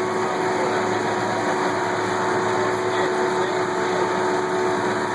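Tour boat's motor running steadily, a constant engine drone with a fixed pitch.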